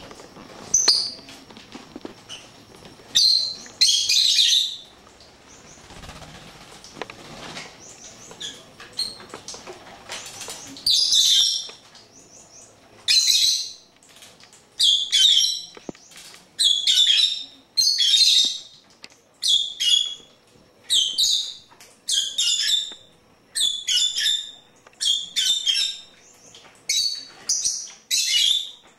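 Pet bird chirping: short, loud, high calls. The first ten seconds hold only a few scattered calls. After that the calls come steadily, about once a second.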